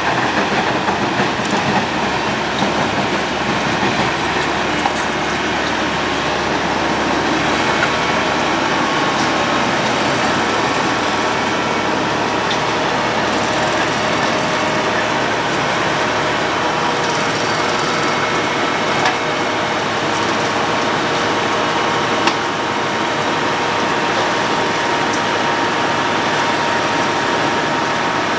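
Road planer (cold milling machine) grinding up asphalt: a steady, unbroken grinding rumble of the cutting drum and diesel engine, with a couple of brief sharp clicks.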